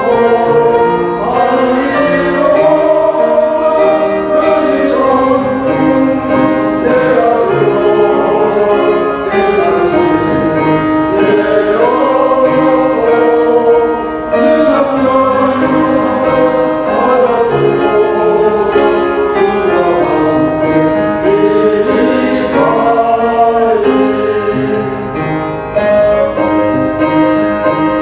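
Men's church choir singing a Korean gospel hymn.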